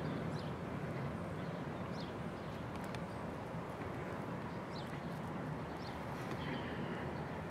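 Outdoor ambience: a steady low rush of background noise with a few short, high bird chirps scattered every second or two.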